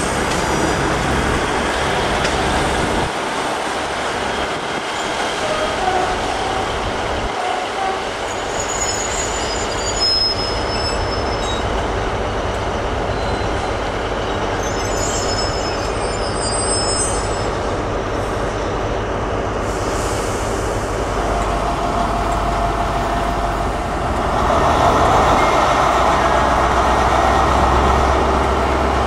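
Diesel multiple unit rolling slowly through station pointwork, its wheels giving short high-pitched squeals twice on the curves. Later a diesel locomotive, a CrossCountry HST power car, runs loudly, growing louder near the end.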